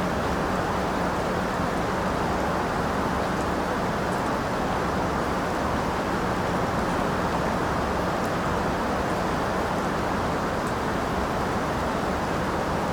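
Steady rain falling, an even hiss with no breaks, with a few faint drip ticks.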